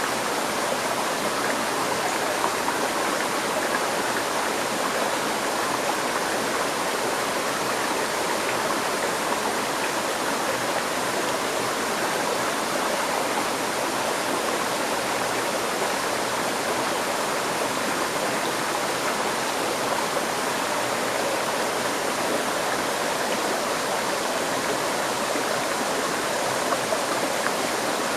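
River stream flowing, a steady rushing and burbling of water.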